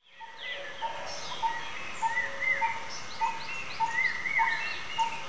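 Birds calling and singing. One bird repeats a single short note at a steady pace, over other chirps and whistled notes. The sound fades in at the start.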